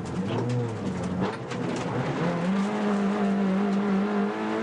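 Suzuki Swift 1.3 rally car's four-cylinder engine heard from inside the cabin, its revs shifting up and down for the first couple of seconds, then rising about two seconds in and held at a steady high pitch as the car accelerates.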